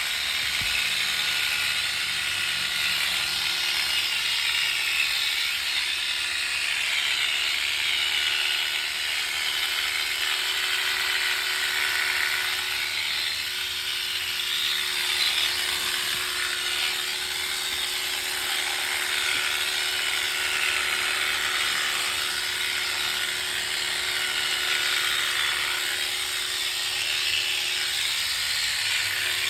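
Electric sheep-shearing clippers running steadily, the motor's hum under a continuous buzzing of the cutter working through the fleece.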